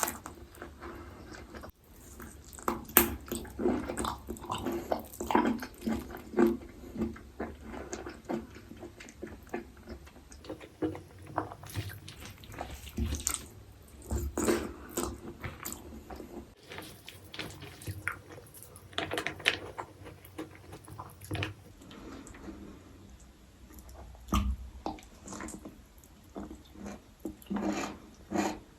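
Close-miked chewing and wet mouth sounds of someone eating braised pork and rice: irregular smacks and squishes, several a second, with brief pauses between mouthfuls.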